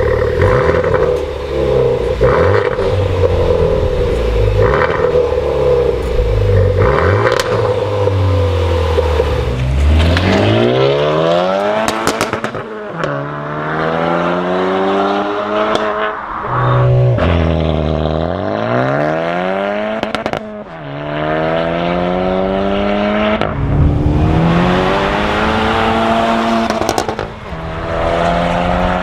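Four-cylinder car engine running steadily at first, then accelerating hard through the gears. Its pitch climbs in each gear and falls back at each of several quick upshifts.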